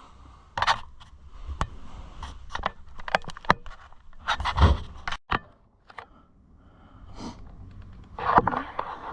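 Handling noises: a string of sharp clicks and knocks with short scraping sounds, quieter for a second or two in the middle.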